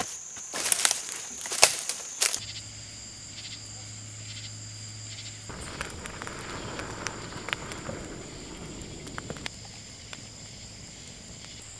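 Steady high-pitched insect chorus. Several loud sharp clicks come in the first two seconds or so, and a stretch of rustling noise runs through the middle.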